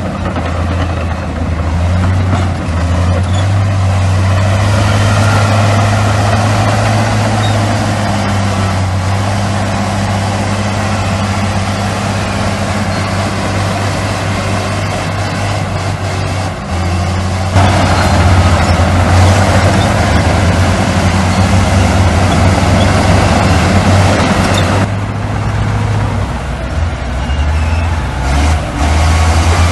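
Heavy diesel engines of earthmoving machinery, bulldozers and dump trucks, running steadily with a low drone. The sound grows louder a little past halfway for several seconds.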